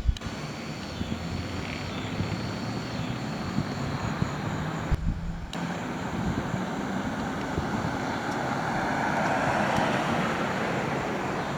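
Medical helicopter's rotor and turbine engine running, a steady noise that grows louder about ten seconds in. The sound drops out briefly about five seconds in.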